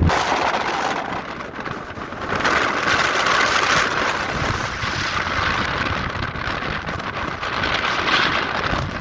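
Strong wind rushing steadily, a loud hiss that swells about two seconds in, with a little buffeting on the microphone.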